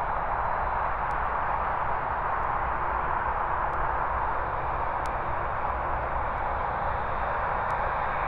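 Boeing 787 Dreamliner's jet engines making a steady, even rush of noise with a low rumble underneath.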